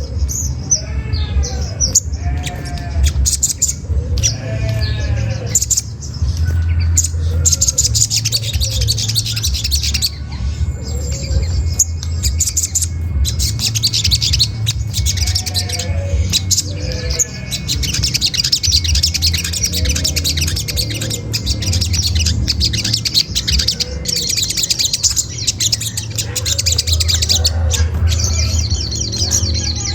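Olive-backed sunbird giving rapid, high-pitched 'cret cret' chattering calls without pause, with some lower, down-curving call notes mixed in, over a steady low hum.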